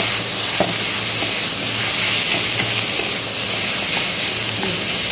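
Onions and ground spices (chilli and coriander powder) sizzling in hot oil in a kadai as the masala fries, a steady hiss with a few light clicks from stirring.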